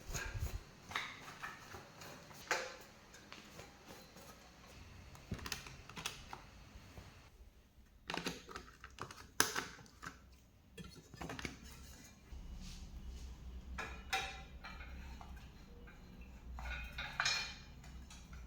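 Light, irregular clicks and taps of a clock being handled and cleaned, with a few sharper knocks in the middle. A low hum comes in about two-thirds of the way through.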